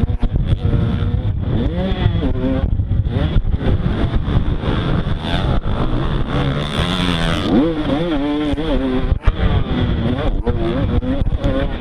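Motocross bike engine revving hard during a race, its pitch climbing and dropping again and again as the throttle is worked, over a dense rough rumble.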